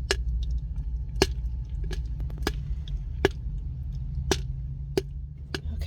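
Popcorn kernels popping in a Joulle electric kettle: about eight sharp pops, roughly one a second, the sparse popping near the end of the batch, over a steady low hum.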